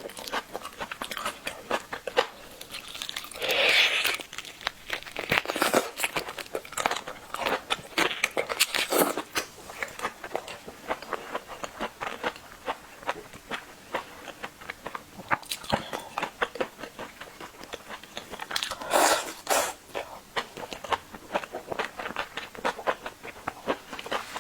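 A person eating: biting and chewing food, a steady run of quick clicks and crunches, with two louder, longer bursts about three and a half seconds in and near the nineteen-second mark.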